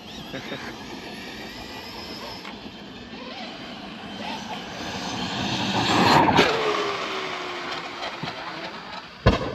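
Large brushless electric RC car driving, its motor whine and tyre noise building to a peak about six seconds in, then a falling whine as it draws away. A sharp knock near the end.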